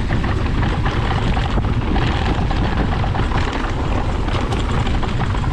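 A mountain bike riding fast down a rough trail: a steady rushing rumble of wind and tyres on dirt, with many small knocks and rattles from the bike as it goes over the bumps.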